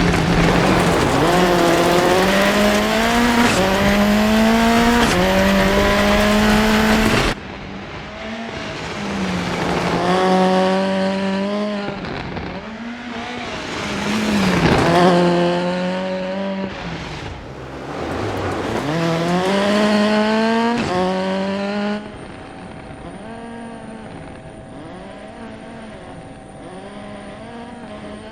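Rally car engine revving hard and climbing through the gears, its pitch rising and dropping back at each shift, under a heavy wash of gravel and wind noise. The sound changes abruptly about seven seconds in to quieter engine revving that rises and falls, and drops further in level near the end.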